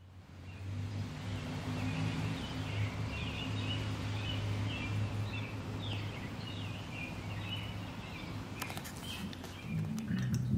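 Birds chirping and singing over a steady low hum, with a few clicks near the end.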